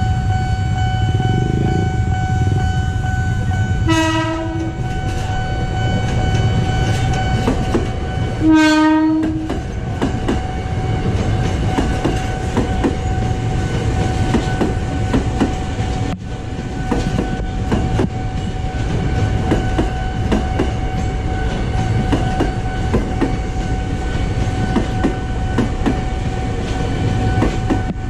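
A train running on the rails with a steady rumble and whine underneath. Its horn gives two short blasts, about 4 and 9 seconds in, and clicks over rail joints follow.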